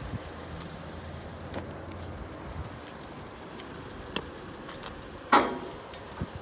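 Car engine idling with a steady low hum that fades out after about two and a half seconds, over a haze of traffic noise. A short, loud sound stands out about five seconds in.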